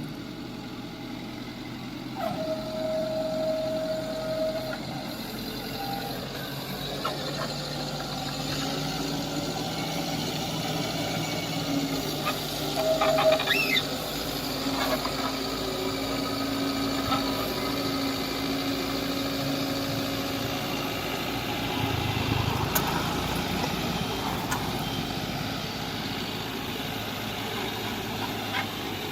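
Diesel engines of an excavator and dump trucks running steadily while red mud is loaded. A single steady tone sounds for about two seconds near the start, and a shorter tone comes about halfway through.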